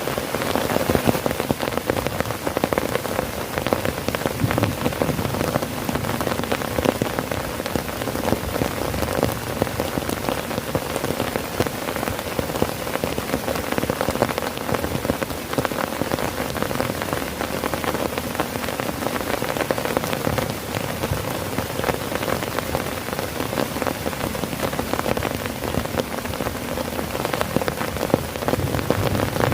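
Heavy rain drumming steadily on a tent, a dense, unbroken patter of drops.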